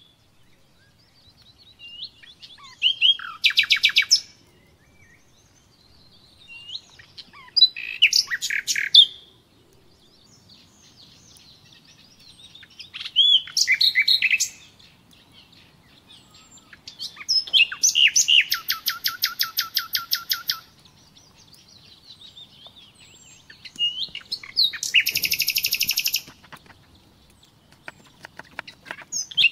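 A songbird singing in separate phrases every few seconds, each a quick run of chirps and trills; the longest, a rapid trill of about three seconds, comes a little past the middle.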